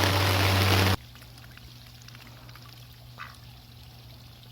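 A loud steady hiss with a low hum cuts off abruptly about a second in. After it the sound is quiet, and a Rouen duck gives one short quack about three seconds in.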